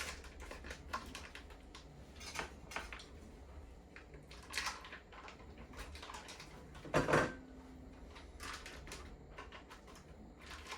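Kitchen handling sounds as food prep goes on: scattered light clicks and rustles of packaging and utensils, with one louder knock about seven seconds in.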